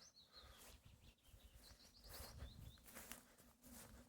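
Faint outdoor ambience: small birds chirping in quick runs of short, high notes, over a low rumble, with a few soft scuffs.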